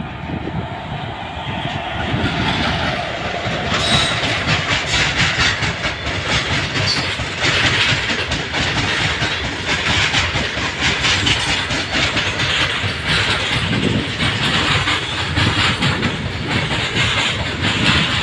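Indian Railways goods train behind an electric locomotive passing at speed. It grows louder as the locomotive draws level, about four seconds in, then the loaded freight wagons roll by with a steady, rhythmic clatter of wheels on the rails.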